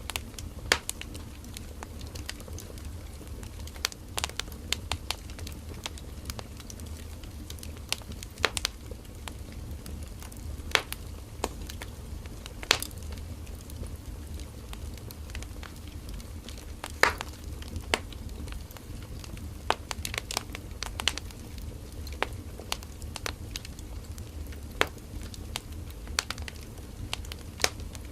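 Firewood burning in a campfire: irregular sharp crackles and pops over a steady low rumble of the flames.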